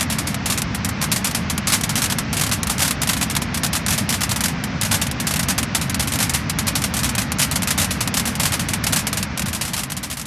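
Wood fire crackling and popping in a fireplace: a dense run of quick sharp crackles over a low rumble of the flames, starting to fade out near the end.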